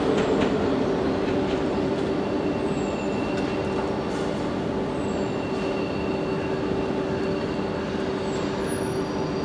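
BLS regional push-pull train rolling slowly away over the station points, with a steady hum that fades slightly and a few faint, brief wheel squeals.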